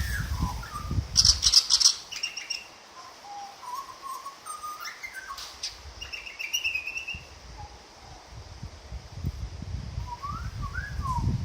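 A butcherbird singing scattered fluting, gliding notes, with a man whistling along. A low rumbling noise runs under the first second or so and comes back near the end.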